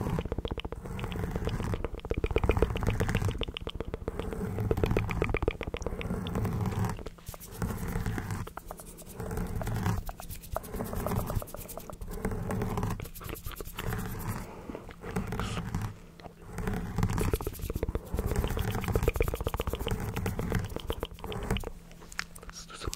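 Close-microphone ASMR mouth sounds: wet clicks and smacks coming in repeated bursts every second or two, with short pauses between them.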